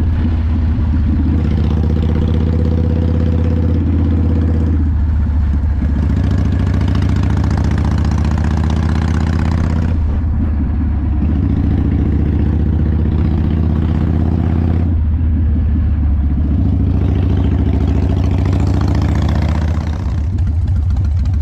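Harley-Davidson motorcycle's V-twin engine running on the road, its pitch stepping up and down several times with changes of throttle and gear.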